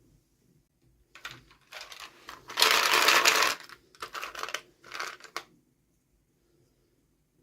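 Plastic toy packaging being handled and opened, with crinkling and small clicks in a run of short bursts; the loudest lasts about a second near the middle.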